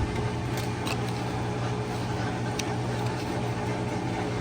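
Steady electric motor hum with a few light clicks.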